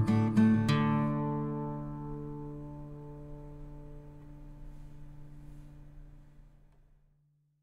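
Background music: a few strummed guitar chords, then a last chord about a second in that rings out and slowly fades to silence near the end, closing the piece.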